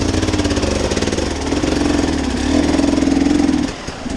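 Off-road vehicle engine running under load as it creeps up a rocky obstacle, the revs rising for a moment then easing off briefly near the end.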